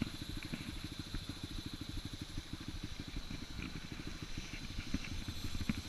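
Off-road dirt bike engine running at low revs, a steady, even chug of rapid low pulses, with a light knock or two near the end.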